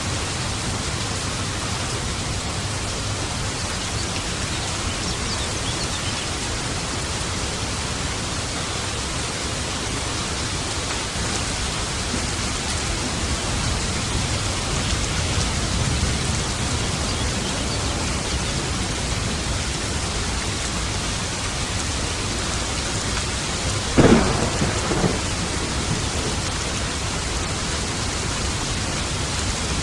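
Steady rain with thunder: a low rumble swells about halfway through, and near the end a sharp thunderclap cracks, followed a second later by a smaller one.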